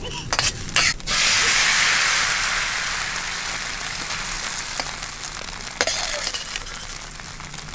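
Shrimp-and-egg batter poured into hot oil in a wok, sizzling loudly from about a second in and slowly dying down. A few metal clinks of the ladle against the pan come just before.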